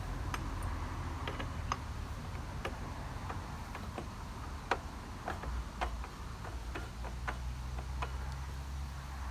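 Irregular light clicks and taps from hand work with tools and parts during a mower repair, over a low steady rumble.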